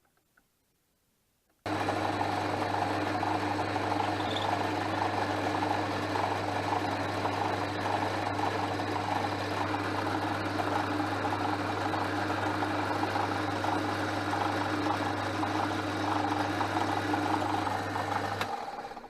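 Portass Model S mk2 metal lathe running under its electric motor: a steady mechanical hum and whir that switches on abruptly about two seconds in and stops shortly before the end.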